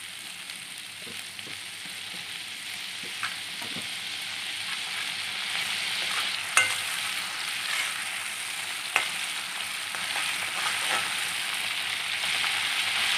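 Onion, ginger and garlic paste sizzling in hot oil in a metal kadai as it is fried to cook off its raw smell, stirred with a spatula that taps and scrapes the pan now and then. The sizzle grows slowly louder, and the sharpest tap comes about six and a half seconds in.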